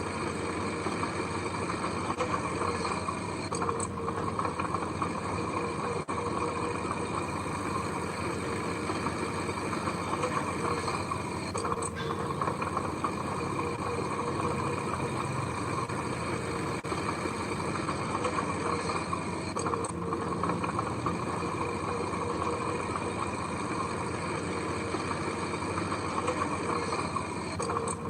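Heavy diesel machinery engine running at a steady drone, with no pauses or revs.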